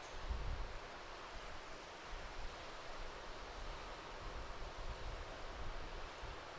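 Strong wind buffeting the microphone in irregular low gusts over a steady rushing hiss.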